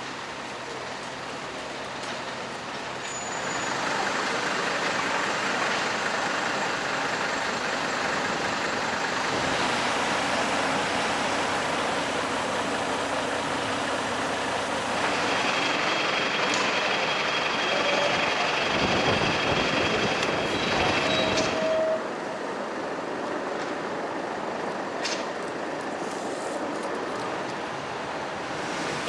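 Fire engines' engines running, a steady noise that grows louder about four seconds in, swells further and then drops off sharply about 22 seconds in.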